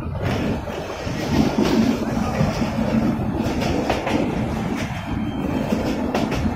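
Local passenger train running along the line, heard from a carriage window: a steady rolling rumble with the wheels clattering irregularly over the rail joints.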